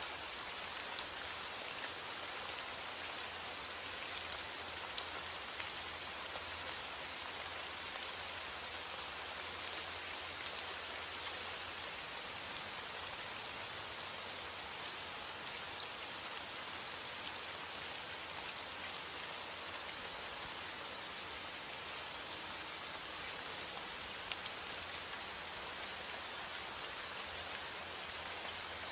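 Steady heavy rain falling on a surface, a constant hiss with many individual drops pattering through it.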